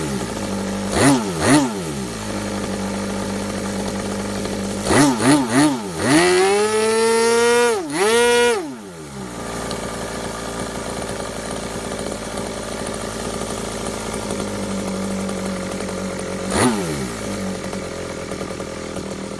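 RC model methanol engine on a test bench idling steadily, blipped twice about a second in and three times in quick succession around five seconds. It is then held at high revs for about two and a half seconds before dropping back to a steady idle, with one more short blip near the end.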